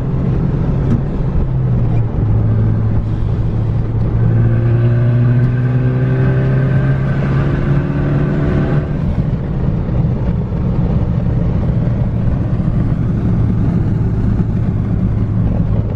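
Car engine running under a steady low drone, its pitch climbing slowly as it accelerates from about four seconds in, then easing off about nine seconds in.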